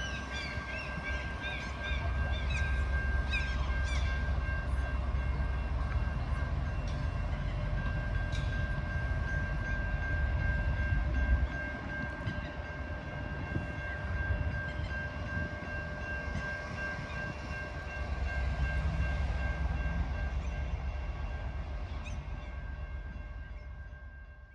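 Alaska Railroad passenger train rolling slowly past with a low diesel rumble that swells and eases, over a steady high-pitched squeal. Faint bird chirps are heard near the start, and the sound fades out at the end.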